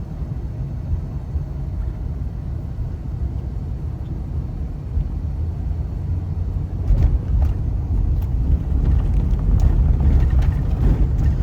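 Low road and engine rumble of a moving car heard from inside the cabin, getting louder about two-thirds of the way in, with a run of knocks and jolts from a rough road surface.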